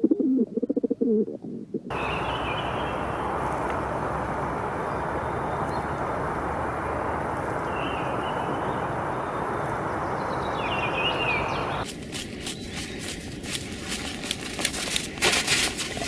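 Pigeons cooing for the first two seconds, then a steady rushing noise with a few faint high bird chirps. Near the end comes a run of sharp crackling clicks.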